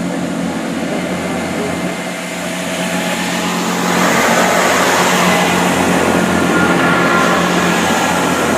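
Class 165 diesel multiple unit running as it pulls out of the station, its engine note steady, with the noise of the train swelling about four seconds in.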